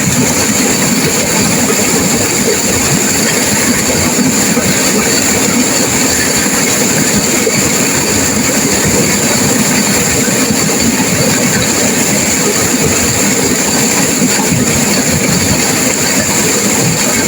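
Turbulent river water rushing and crashing, a loud steady rush with no breaks.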